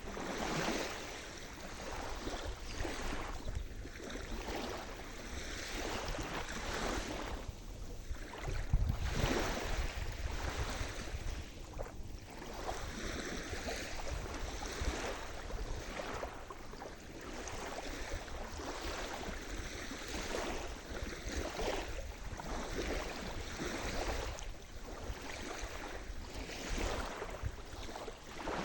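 Sea surf: waves breaking and washing in, the noise swelling and easing every few seconds, with a heavier low rumble of a bigger wave about nine seconds in.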